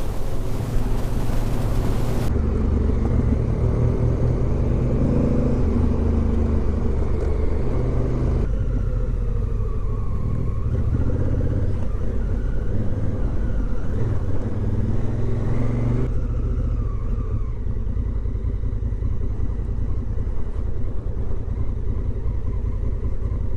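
Motorcycle engine running under way on a ride, its note rising and falling with the throttle. The sound changes abruptly a few times.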